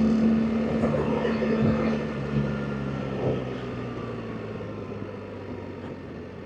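BMW R 1300 GS Adventure's boxer-twin engine running under way, its note steadily easing off and getting quieter as the bike slows, with wind rush and a faint whine falling in pitch.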